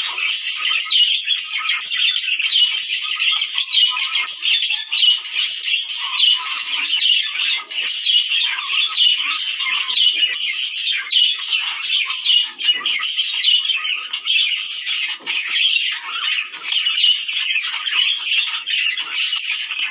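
A flock of budgerigars chattering continuously, with many short chirps and squawks overlapping.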